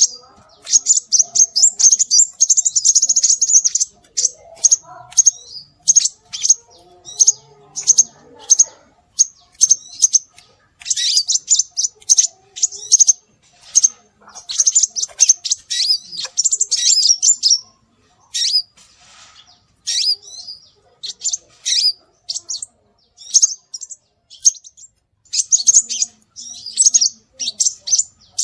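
Scarlet minivet (sepah raja) calls: runs of rapid, high, sharp chirps and twitters, repeated in bursts of a second or two with short pauses between.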